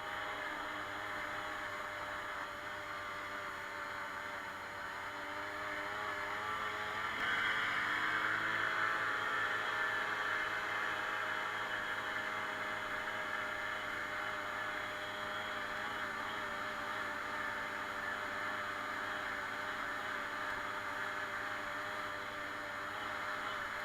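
Suzuki Colleda moped's small two-stroke engine running under way. It picks up revs and gets louder about seven seconds in, then holds a steady pitch.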